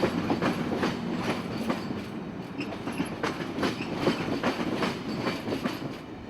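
Amtrak passenger train rolling past, its wheels clicking and clacking over the rail joints several times a second over a steady rumble.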